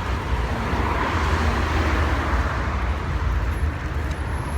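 Road traffic noise with a low rumble, a vehicle swelling past about a second in.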